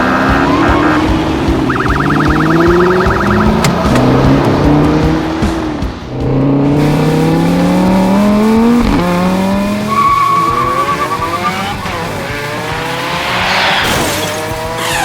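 Cartoon vehicle sound effects: engines revving up again and again in rising pitches, with rapid electronic beeping in the first few seconds, over background music.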